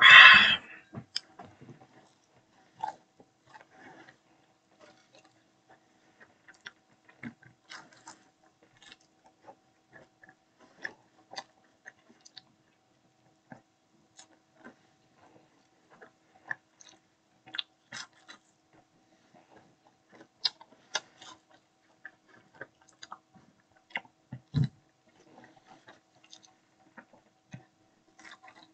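A person biting and chewing food: a loud crunchy bite right at the start, then scattered soft chewing clicks and mouth smacks, with a single low thump about three-quarters of the way through.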